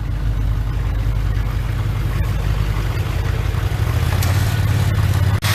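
Chevy Duramax diesel engine high idling just after a cold start, a steady low running that cuts off abruptly near the end.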